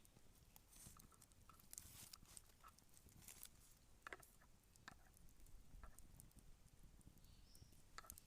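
Wood campfire crackling faintly, with scattered small pops and snaps every second or so over a low background hiss.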